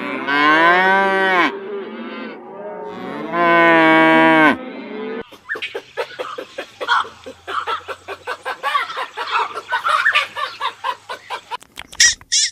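Cow mooing: two long, drawn-out moos, each dropping in pitch at the end. From about five seconds in, a run of quick, short, rough sounds of a different kind follows.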